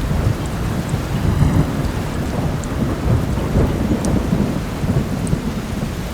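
Heavy rain with a low rolling thunder rumble that swells about a second in and eases toward the end, with a few faint fireplace crackles.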